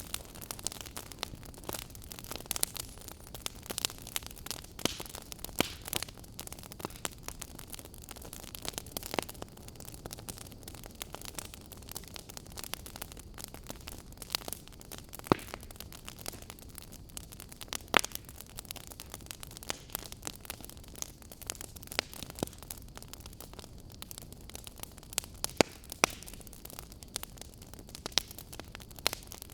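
Wood fire burning in a fireplace: a steady low hiss with irregular crackles and sharper pops from the burning logs.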